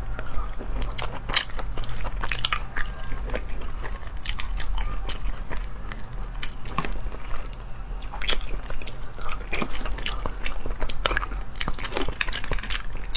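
Close-miked eating sounds: wet chewing and biting of sea snail meat in chili sauce, with many irregular sharp mouth clicks, over a constant low hum.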